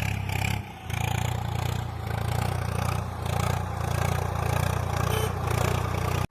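Small motor running a model steadily, with a clattering, scraping rattle. It dips briefly just under a second in, then runs on evenly.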